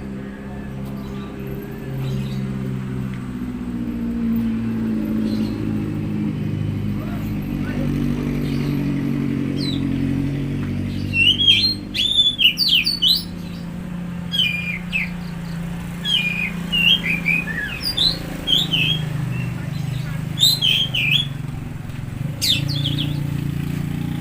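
Oriental magpie-robin singing, from about halfway in, in quick sharp chirps and short whistles, over a steady low engine hum.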